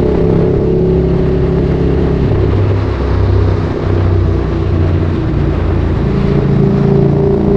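Ducati Streetfighter 848's L-twin engine running through a Termignoni exhaust while riding. Its pitch drops about two seconds in and rises again near the end as engine speed picks back up.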